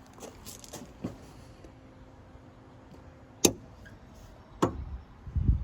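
Sharp clicking under a diesel truck with the key left in the on position, two loud clicks about a second apart after a few faint ones: the glow plug system cycling, as the owner takes it. A low thump near the end.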